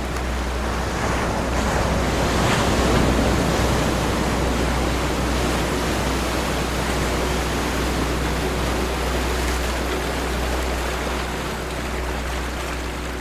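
Ocean waves washing on a shore in a steady rush. One wave swells to its loudest about two to three seconds in, then eases back into the wash.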